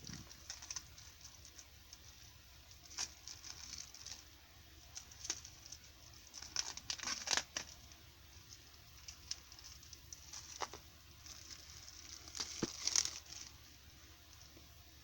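Phone box packaging being handled and opened: rustling, crinkling and tearing with scattered small clicks, busiest about seven seconds in and again near thirteen seconds.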